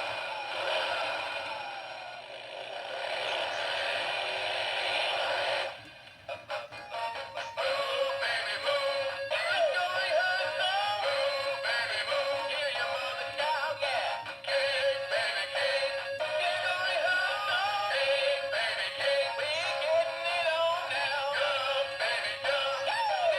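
Dan Dee animated motorcycle-riding Phantom Halloween figure playing its soundtrack through its small built-in speaker. A rushing noise runs for about six seconds, then after a few clicks a song with a male singing voice starts, thin and without bass.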